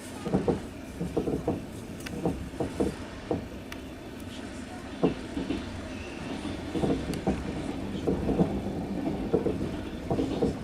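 Passenger train wheels knocking over the rail joints, in irregular clusters of clacks over a steady rolling rumble, heard from inside the carriage.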